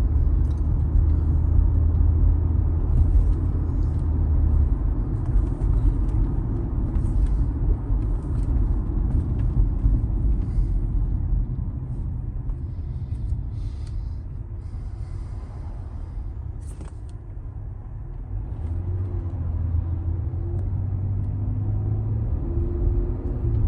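Cadillac XT5 on the move, heard from inside the cabin: a steady road and engine rumble, heavier near the start and again in the last few seconds, easing in the middle. Scattered short clicks and knocks come through over it; the owner is hunting an intermittent small click on and off the gas that he thinks comes from the drivetrain.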